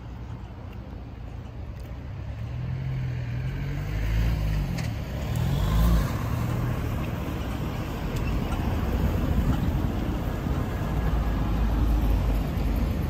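A car driving past on a city street, its engine note rising and falling in pitch for a few seconds, over steady traffic rumble and tyre noise.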